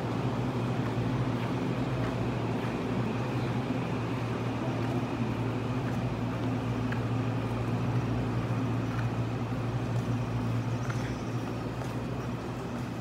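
Steady low hum of an electric multiple-unit train heard from inside the passenger car, with a faint high tone and a few light clicks; the sound gets a little softer near the end.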